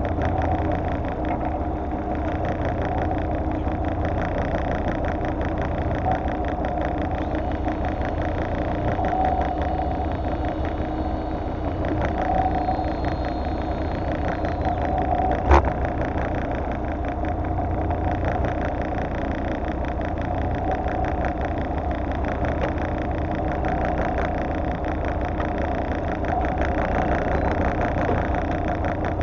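Fishing boat's engine running steadily at low speed, with one sharp knock about halfway through.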